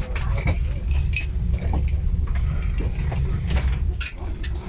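Low rumble inside a train carriage, with scattered clicks, knocks and clinks.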